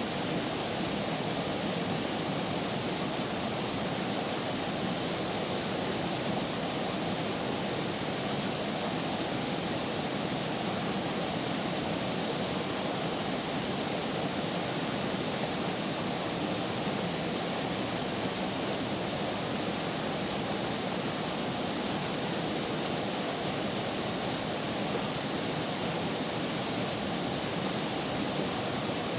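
Running river water, a steady even rush.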